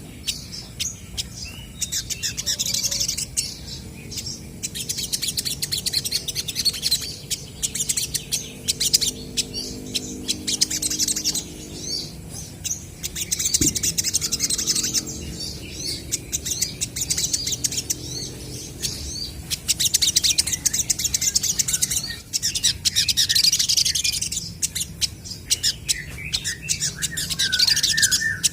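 Olive-backed sunbirds twittering and calling back and forth: rapid high-pitched chirps in bursts of a few seconds, with short pauses between them.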